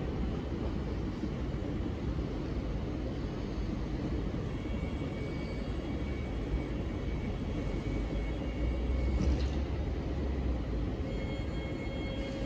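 Steady rumble of SNCB electric multiple unit trains moving through the station, with faint steady high tones coming in about halfway through.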